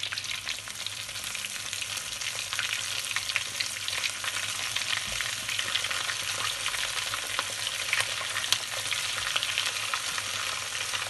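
Flour-and-egg-coated rounds of pig's trotter and ear sizzling in hot oil in a small frying pan, a steady dense crackle of tiny pops.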